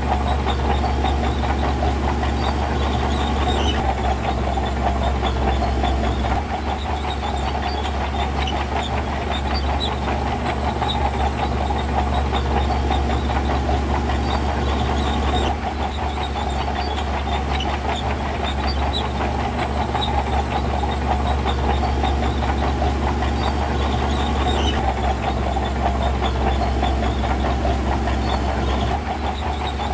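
Heavy diesel earthmoving machinery running steadily, with a continuous low engine drone and metallic clatter; the level shifts slightly a few times.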